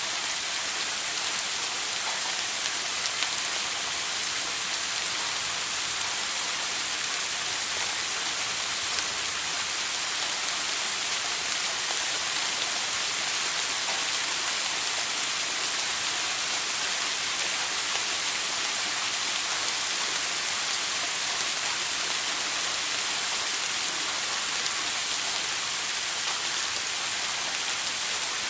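Shower running steadily: water spraying and splashing in an even, unbroken hiss.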